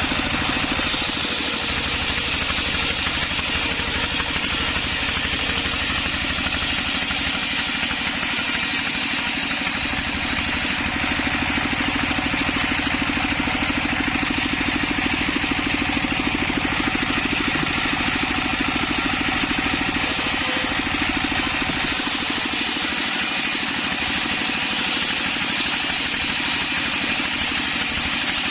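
Homemade circular saw rig running steadily, a constant engine-like drone with a higher whine from the blade, shifting slightly in tone about 11 seconds in and again about 21 seconds in.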